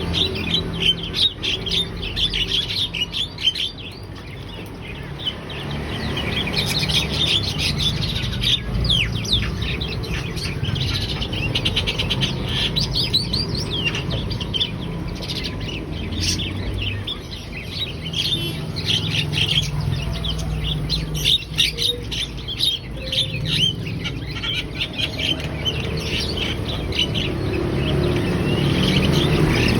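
Javan myna (jalak kebo) in full song, calling almost without pause: a dense stream of quick, sharp chirps and whistles over a steady low background rumble.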